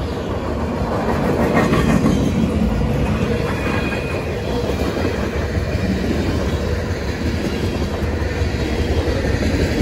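Freight cars of a passing manifest train rolling by close up, a steady loud rumble with the wheels clattering over the rails.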